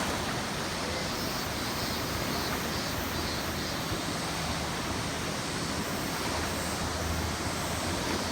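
Tama River water rushing steadily, a continuous even noise of the river running high after rain.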